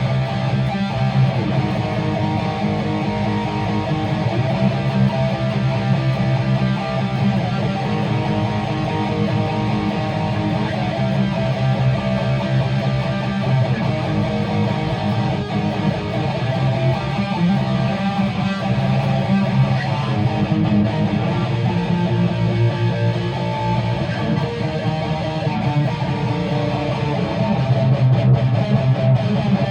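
Guitar playing steadily, strummed chords without singing.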